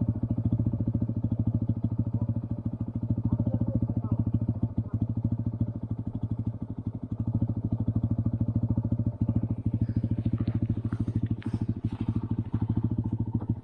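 Motorcycle engine running steadily on an off-road ride, easing off briefly twice, with light knocks and rattles over the last few seconds.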